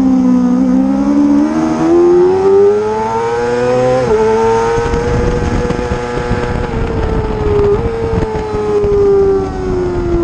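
Racing motorcycle engine at high revs: the pitch climbs for about four seconds, drops sharply at a gear change, holds high with a brief dip at a second shift, then falls away near the end as the bike slows.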